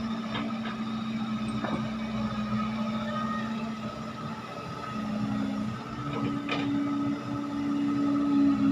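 Diesel engine of heavy earthmoving machinery running steadily. Its pitch rises and it grows louder from about five seconds in, as under more throttle or load, with a few short metallic clanks.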